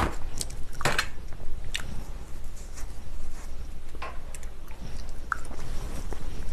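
Close-miked chewing of a mouthful of spicy napa cabbage kimchi with rice, with sharp, irregular wet mouth clicks.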